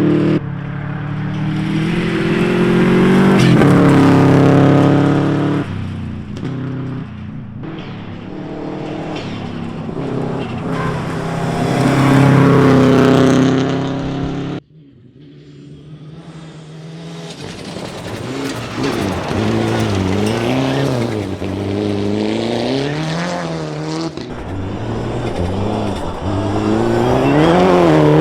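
Rally car engines revving hard at speed, pitch climbing and dropping through quick gear changes as the cars come close and pass. There is a sudden cut about halfway, then more rising and falling revs building to a loud pass near the end.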